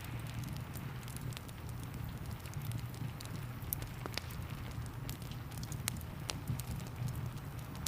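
Wood fire crackling, with irregular sharp pops and snaps, over a steady low rumble and soft hiss of rain.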